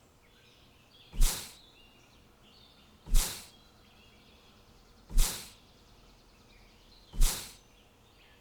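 A short whoosh-like sound effect repeating at a steady pace, about every two seconds, four times, over faint bird chirps.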